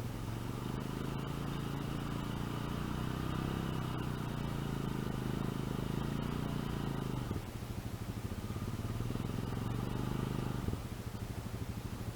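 Engine of a 450 four-wheel-drive ATV running under throttle as it pushes through sticky mud. It eases off about seven seconds in, pulls hard again, and eases off once more near the end.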